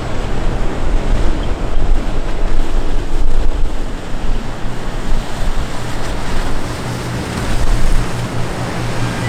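Wind buffeting the microphone outdoors: a loud, rushing noise that swells and falls in gusts, heaviest in the low rumble.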